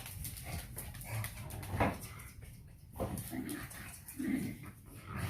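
Dogs playing, whining and making short vocal sounds in separate bursts, with a sharper, louder one about two seconds in.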